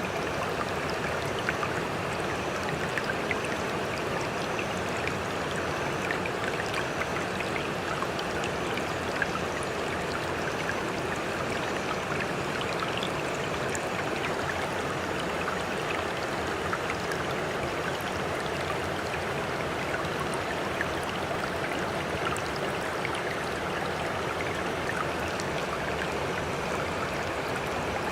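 Sea water making a steady, even rushing wash, flecked with small splashes and drips, with no distinct swell of breaking waves.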